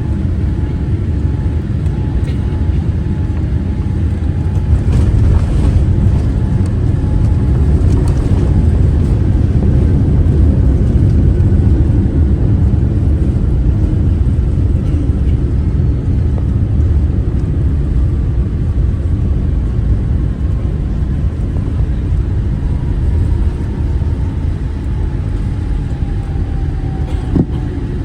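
Cabin noise of a Boeing 787-8 airliner at the end of its flight: a steady low rumble of engines and airflow, with a faint whine that slowly falls in pitch over the second half. A single sharp click comes near the end.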